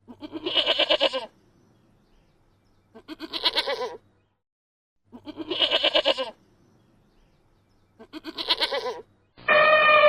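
Four quavering bleats from a farm animal, each about a second long and a couple of seconds apart. Near the end a louder, steady, drawn-out horn-like tone begins.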